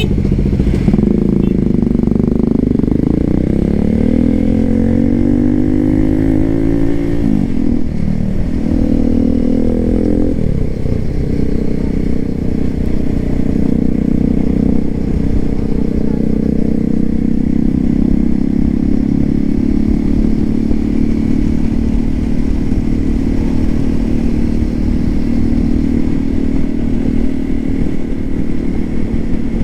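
Hero Xpulse 200 4V's single-cylinder engine through an aftermarket SC Project exhaust, pulling up through the gears with its pitch rising, dipping at two gear changes about seven and ten seconds in, then holding a steady cruise.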